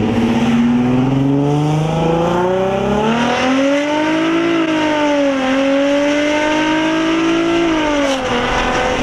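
Infiniti G35's V6 engine and exhaust under hard acceleration, with the exhaust setup it had before the louder modification. The pitch climbs, dips once about halfway, climbs again, then falls away as the throttle lifts near the end.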